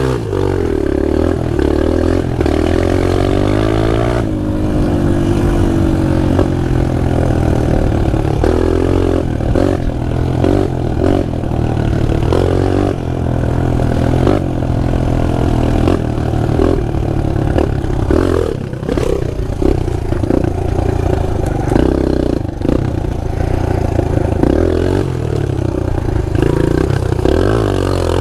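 Pit bike engine running hard under riding, its revs rising and falling over and over, with some clatter and knocks mixed in.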